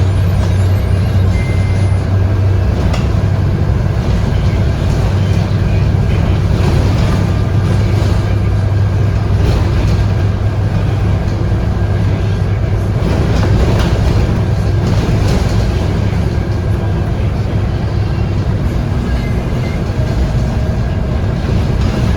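Scania DC9 five-cylinder diesel engine and driveline of a Scania K230UB bus running steadily, heard from inside the cabin, with a constant low hum and light rattles.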